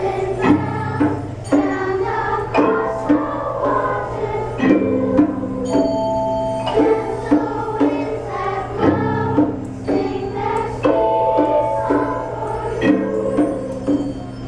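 Children's school choir and instrumental ensemble performing: a steady, rhythmic piece with sung and played melody over sustained low notes.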